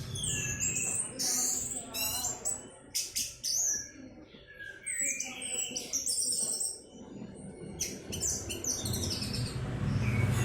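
Orange-headed thrush (anis merah) singing: a fast run of high, varied phrases full of rising and falling slurs, in short strings with brief pauses between them. A low rumble comes up near the end.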